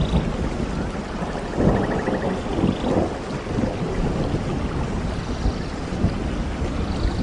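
Steady rain with thunder rumbling low and irregularly underneath.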